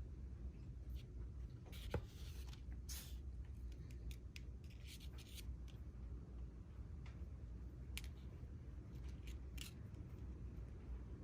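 Fishing line and hook being handled close up while a knot is tied: scattered small clicks and short scratchy rubs of line over a steady low hum, with one sharper click about two seconds in.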